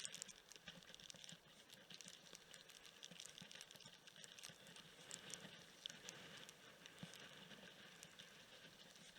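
Faint pattering of raindrops: a steady stream of small, irregular ticks over a soft hiss.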